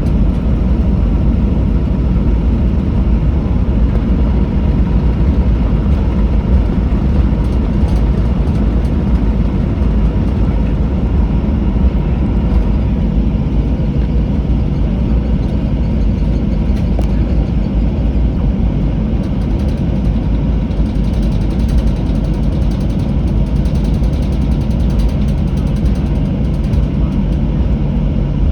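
Steady low rumble of a Boeing 737-800's jet engines and airflow heard inside the passenger cabin, with a steady low hum joining about halfway through.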